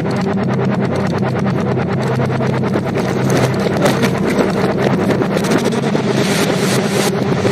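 Film soundtrack played in reverse: a dense, rapidly pulsing mix over a steady low hum.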